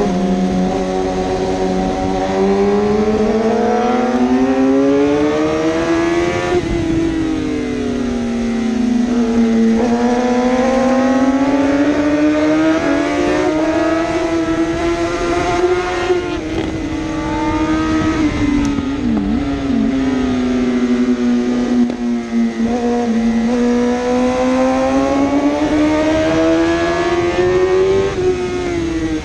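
1000cc superbike engine at racing speed, its pitch climbing for several seconds and then dropping sharply, about three times over.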